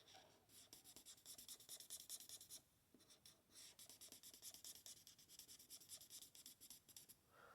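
Faint scratching of an Ohuhu alcohol marker's fine tip on card in quick short colouring strokes, pausing briefly about three seconds in.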